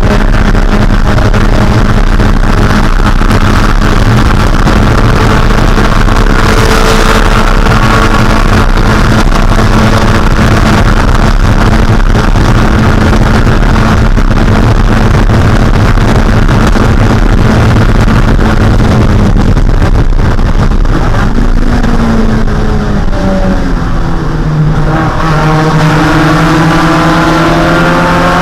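Spec Miata's 1.6-litre four-cylinder engine running at a steady high rev at racing speed. About twenty seconds in, the revs waver and drop for a few seconds, then climb steadily again under acceleration.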